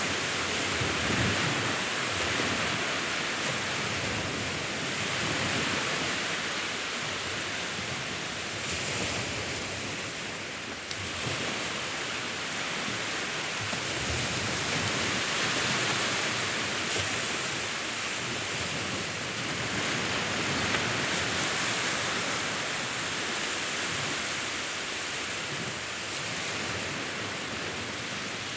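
Sea waves washing in: a continuous rushing surf whose level swells and eases slowly every five or six seconds.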